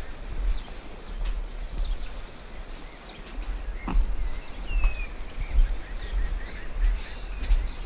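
Birds chirping in short, scattered calls over an uneven low rumble on the microphone, with one sharp click about four seconds in.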